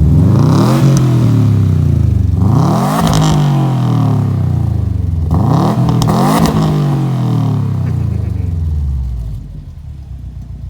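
2012 Subaru Impreza WRX STI's turbocharged flat-four revved three times through a Magnaflow cat-back stainless exhaust. Each rev rises quickly and falls slowly back, and the engine settles to a quieter idle near the end.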